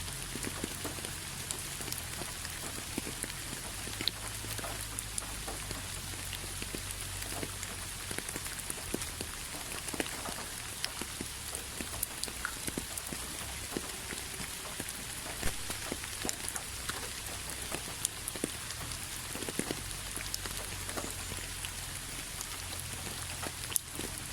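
Steady rain falling, with many separate drops ticking sharply over a continuous even hiss.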